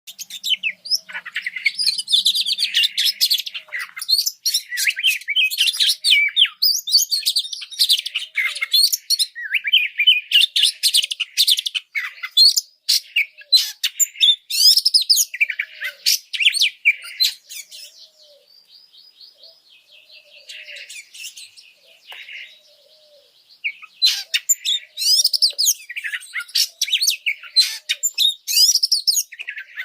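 Oriental magpie-robin (kacer) singing an agitated, high-energy song: a fast, varied run of loud whistles and chattering notes. Partway through it drops to a quieter stretch of rapid repeated notes for a few seconds, then bursts back into full song.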